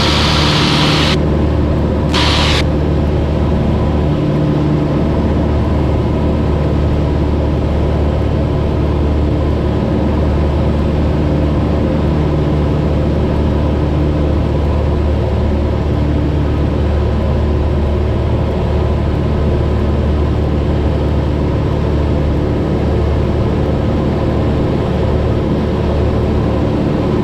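Cessna 172's engine and propeller droning steadily in cruise, heard inside the cabin. A short burst of hiss comes right at the start and again about two seconds in.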